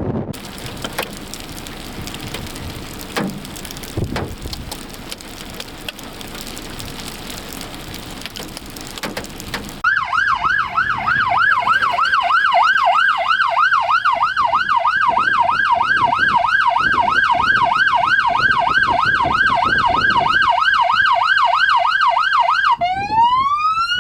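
A rushing noise with a few knocks, then about ten seconds in an electronic siren starts a fast yelp of about three sweeps a second. Near the end it switches to a rising wail.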